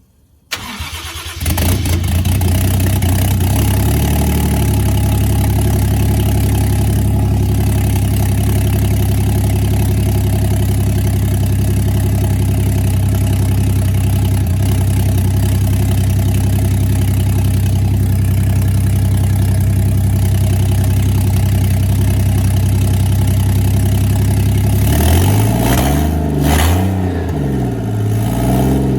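Turbocharged Toyota 1JZ inline-six cranking on the starter briefly, then catching and running steadily at idle on a restart attempt. Near the end the throttle is blipped, and the revs rise and fall a few times.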